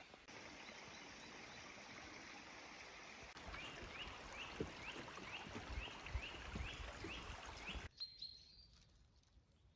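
Steady rushing outdoor noise with a songbird repeating a short rising chirp, about two a second, and a few soft footfalls. Nearly eight seconds in, the rushing noise cuts off abruptly, leaving quieter ambience with high bird chirps.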